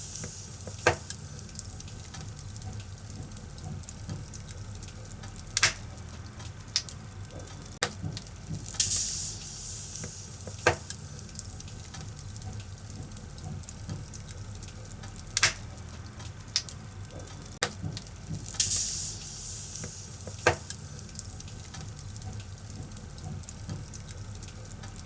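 Firewood burning in a fireplace: a steady low crackle with sharp pops every few seconds and two brief spells of hissing, about nine and nineteen seconds in.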